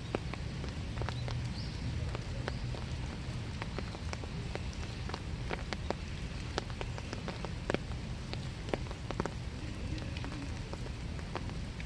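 Steady winter rain falling in a small wood, an even hiss with many separate drops ticking irregularly on nearby surfaces.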